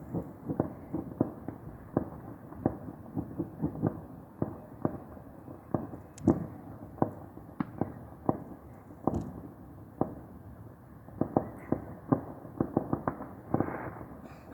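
Fireworks going off: many sharp bangs and pops at irregular intervals, now and then several in quick succession, with a dense run of them about two-thirds of the way through.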